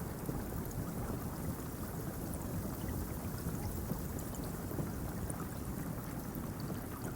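Steady rain falling: an even, continuous hiss with faint scattered drop ticks.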